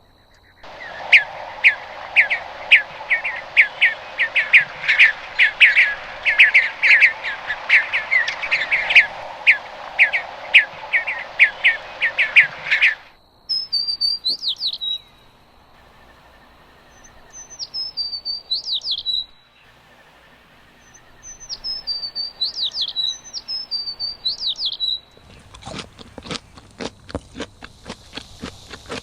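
Birds calling: a fast, steady run of short chirps for about twelve seconds, then several short phrases of falling whistled notes. Near the end come a series of sharp, evenly spaced taps.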